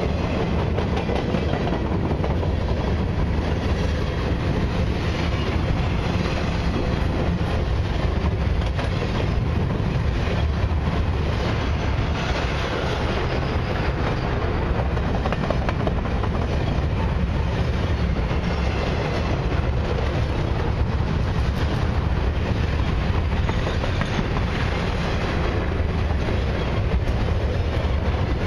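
Canadian Pacific Expressway freight train rolling past: a long string of empty low-deck platform cars, then cars carrying highway trailers near the end. The steel wheels make a steady rumble and clatter on the rails.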